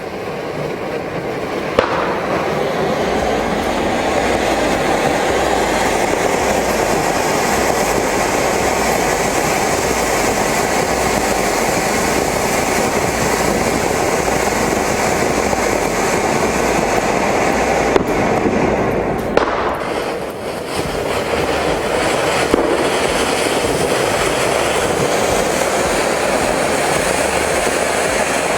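Firework burning with a continuous, dense crackling hiss for nearly the whole time, dipping briefly about two-thirds of the way through before picking up again.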